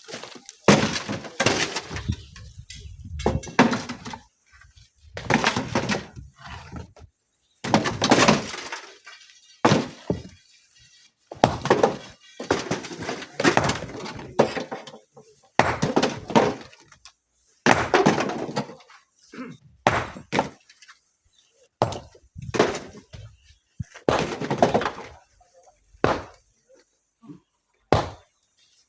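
Rocks crashing again and again, one loud impact about every two seconds, as rock is broken and loaded by hand.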